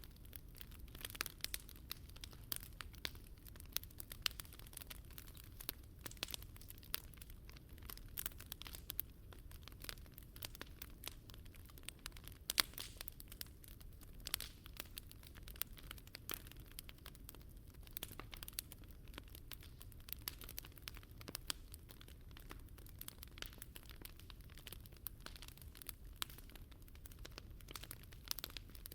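Wood fire crackling in a Picogrill 398 fire pit, with many small sharp pops at irregular intervals over a low steady rumble.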